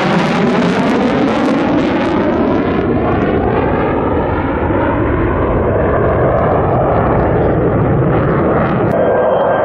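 Loud, steady jet roar of an F-35 Lightning II's single turbofan engine as the fighter flies past. A sweeping, phasing whine bends through the roar, and the sound grows duller over the first few seconds as the jet moves away.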